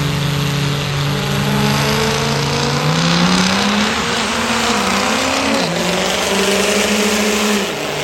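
High-horsepower diesel pickup truck engine running hard over a loud rush of noise. Its pitch is steady at first, climbs about three seconds in, wavers up and down, then drops back near the end.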